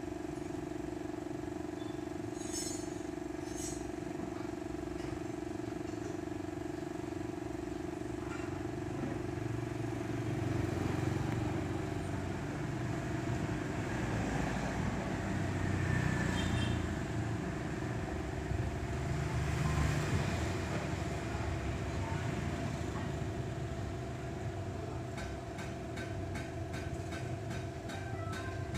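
Motor vehicle engines running in street traffic, a steady hum that swells a few times as vehicles pass, with a fast regular ticking near the end.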